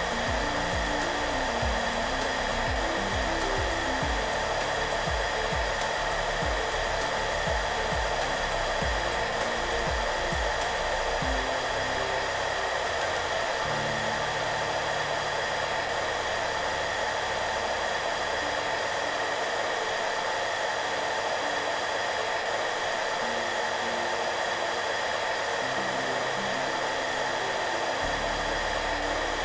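Hair dryer running steadily, a constant blowing hiss, with soft background music of low held notes underneath; a soft low beat in the music stops about eleven seconds in.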